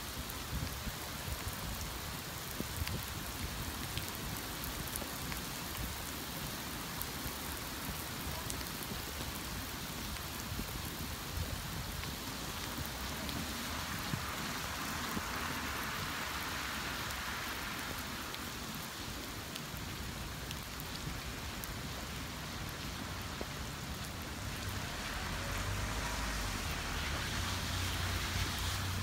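Steady rain falling and pattering on surfaces, with scattered faint drip ticks. The rain swells for a few seconds around the middle, and a low hum builds up near the end.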